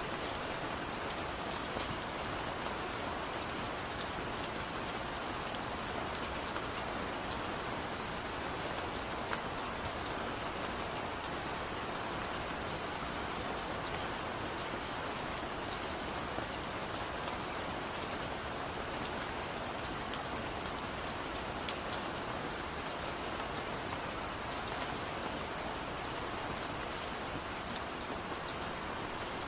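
Steady rain falling, with a constant hiss and many small drop ticks on hard surfaces.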